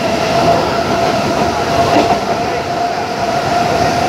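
Passenger train running at speed, heard from aboard: a steady rumble of wheels on the track with a steady whine over it.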